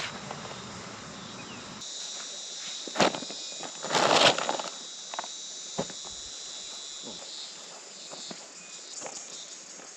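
Steady high-pitched insect drone. Before it, a low rumble cuts off abruptly about two seconds in. A sharp click comes at about three seconds, a louder rustling clatter just after four seconds, and a few fainter knocks follow.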